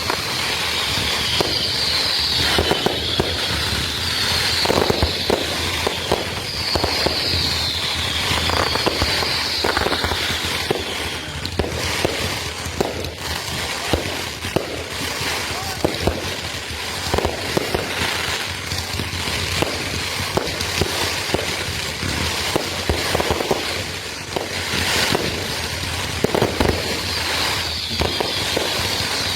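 Consumer fireworks going off in rapid succession: a continuous barrage of bangs and crackling, with runs of short falling whistles a few seconds in, in the middle and again near the end.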